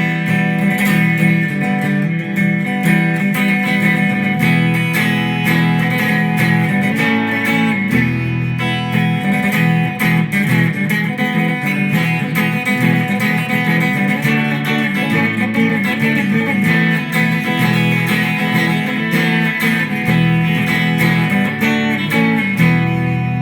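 Guitar being played continuously, its chords ringing with the bass notes changing every few seconds.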